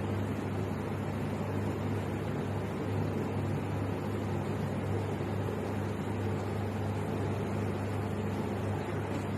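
Steady low hum with a constant hiss from a running machine, unchanging throughout.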